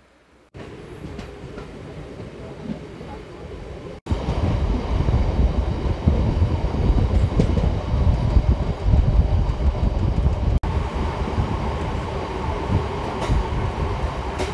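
MEMU electric multiple-unit train running along the track, a steady rumble and rail noise. It cuts in abruptly about half a second in and gets much louder from about four seconds in.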